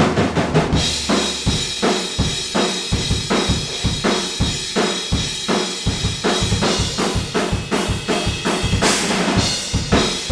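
Acoustic drum kit playing a steady beat on bass drum, snare and cymbals, unprocessed, picked up by an omni microphone placed outside the live room. The playing starts abruptly, and a brighter cymbal wash comes about nine seconds in.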